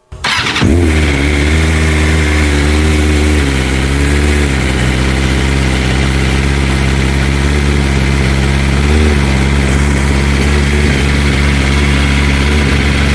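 BMW M1000RR Competition inline-four engine, breathing through an Arrow Pista GP slip-on muffler, starting up and catching within a second, then idling steadily while not yet warmed up. The idle wavers slightly about four seconds in and again about nine seconds in.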